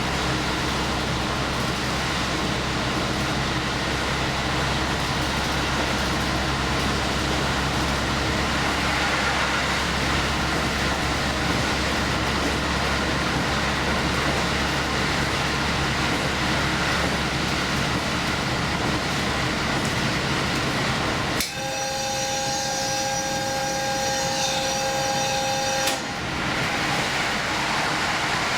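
Express train running along the line, a steady rumbling drone of engine and wheels heard from on board. About two-thirds of the way through, the rumble gives way to a steady two-note tone that holds for about four seconds and stops abruptly.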